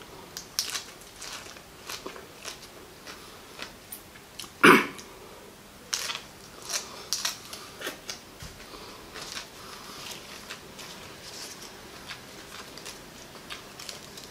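Close-up crunching and chewing of raw agati (Sesbania grandiflora) flowers, with irregular crisp bites and wet mouth noises. One louder, sharper sound stands out a little under five seconds in.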